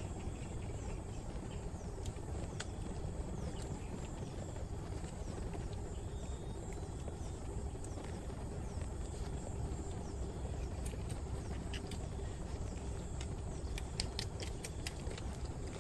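Steady low background rumble with scattered sharp clicks, several coming close together near the end.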